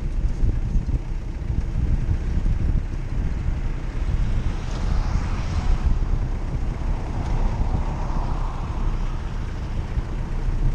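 Jeep Cherokee driving off-road: a steady low rumble from the vehicle, mixed with wind buffeting the microphone, swelling a little twice around the middle.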